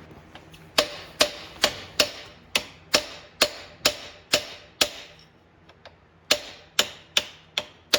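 Hammer blows on steel, about two a second with a short ring after each, in two runs of strikes with a pause of about a second and a half between them, while parts are being driven loose during the tractor transmission teardown.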